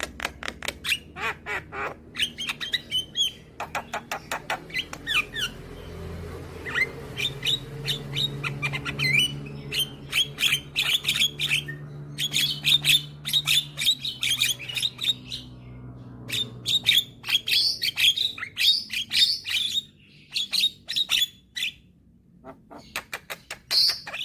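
Young Javan myna (jalak kebo) calling almost nonstop: fast runs of sharp, harsh clicks and squawks mixed with chattering song, broken by a few short pauses.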